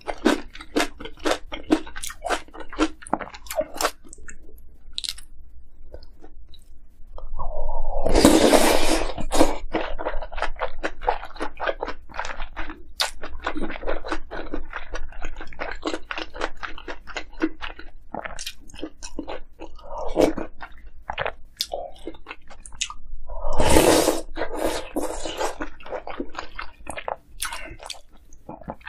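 Close-miked chewing of dumpling soup and kimchi: a steady run of crunchy bites and wet mouth clicks. Twice, about eight seconds in and again near the end, a louder, longer noisy sound lasting a second or two breaks in.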